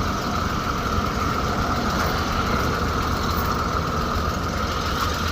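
Vehicle engine idling steadily, with a deep low rumble and a constant higher hum on top.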